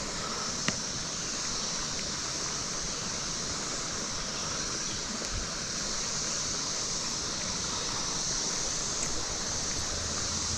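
Creek water running over rocks: a steady rushing sound that holds even throughout, with one faint tick about a second in.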